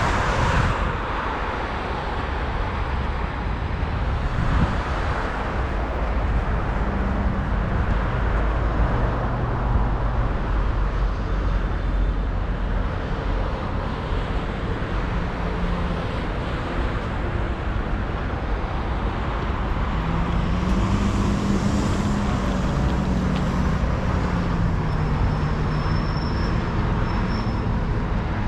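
City street traffic: motor vehicles passing with engines running and tyres on the road, a steady rumble underneath. About two-thirds through, one vehicle's engine note rises and then falls as it goes by.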